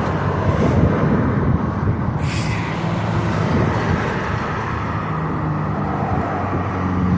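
Road traffic: motor vehicles driving past, a steady engine hum that grows clearer in the second half, with a brief hiss about two seconds in.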